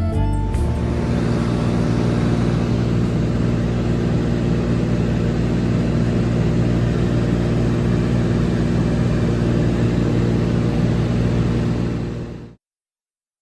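Seaplane's piston engine and propeller droning steadily in flight, a constant hum with a rushing noise over it, fading out about twelve seconds in.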